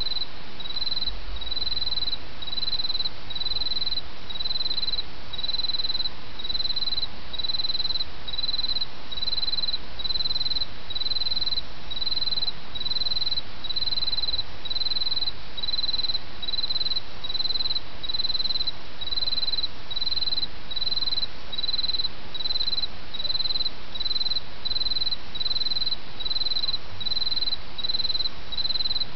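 A cricket chirping in a steady, even rhythm of high chirps, a little more than one a second, over the steady rush of a small stream.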